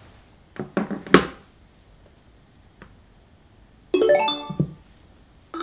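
A few sharp clicks about half a second to a second in, then a short piano-like chime of several notes about four seconds in, with another chime starting right at the end.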